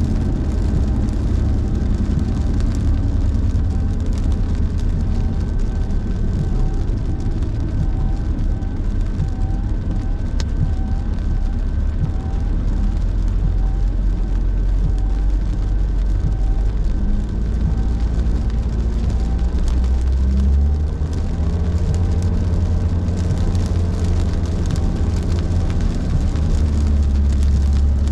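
Car interior road noise while driving in heavy rain: a steady low rumble of tyres and engine under a wash of noise, with a faint chirp repeating at an even pace.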